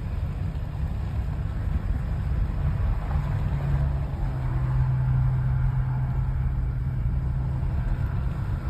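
Low rumble of a running motor vehicle with wind noise on the microphone. A steady low engine hum comes in about three seconds in.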